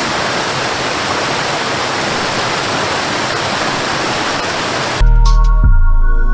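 A steady, even rushing noise like running water, cut off abruptly about five seconds in by loud electronic music with a heavy bass.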